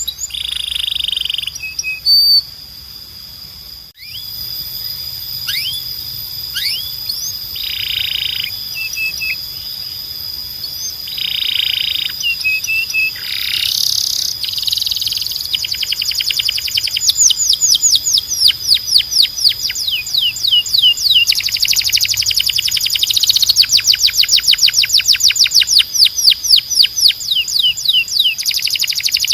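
Belgian canary singing: long rolling trills of rapid downward-sweeping notes over a held high whistle-like tone, broken by short buzzy phrases early on. The trills become faster, denser and louder from about halfway through.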